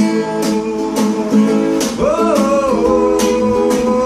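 Acoustic guitar strummed in a steady rhythm, about two strokes a second, with sustained chords: an instrumental passage of a Brazilian sertanejo-style song.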